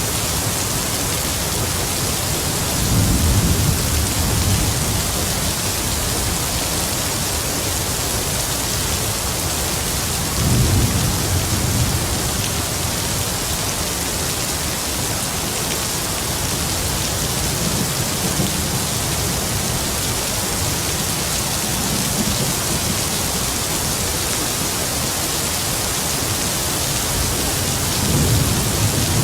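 Heavy rain falling in a steady, even hiss, with low rumbles of distant thunder swelling up through it a few seconds in, about ten seconds in and near the end, and fainter ones in between.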